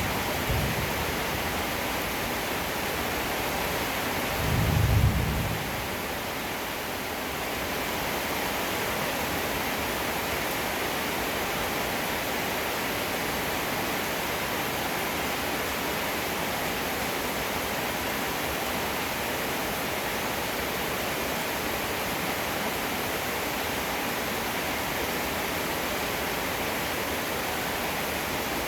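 Steady heavy rainfall, with one short low rumble of thunder about five seconds in.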